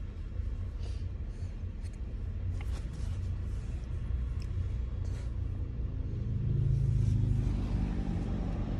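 Steady low engine rumble heard inside a parked pickup truck's cabin, the truck idling, with a louder swell of low hum about six to seven seconds in, like a vehicle passing close by.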